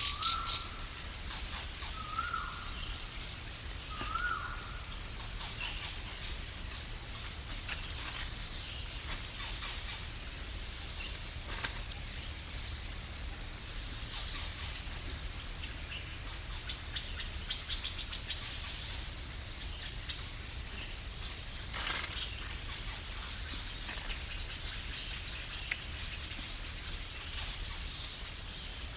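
Steady high-pitched chorus of insects in woodland. A bird gives three short rising notes in the first few seconds, and a high falling whistle comes once at the start and again about two-thirds of the way through.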